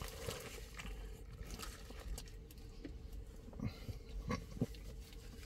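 A person chewing a mouthful of burger, faint, with a few short mouth sounds between about three and a half and four and a half seconds in.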